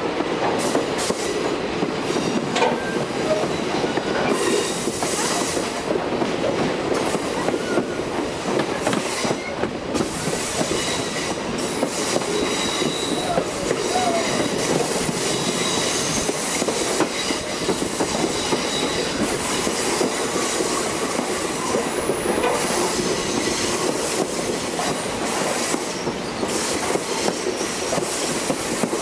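Railroad cars rolling along the track: a steady running noise of steel wheels on rail, with faint high-pitched wheel squeal.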